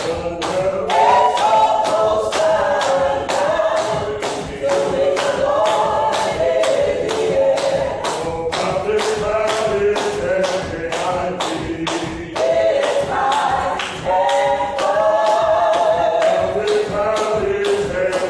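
Gospel choir singing a cappella, many voices together, with sharp claps keeping a steady beat about two to three times a second.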